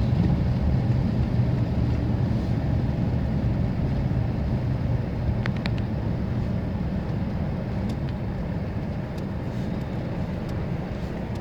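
Car driving: a steady low rumble of engine and road noise that slowly grows quieter, with a few faint ticks.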